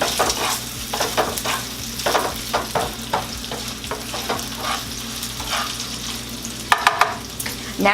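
Bacon strips frying in a pan: a steady sizzle with frequent crackling pops.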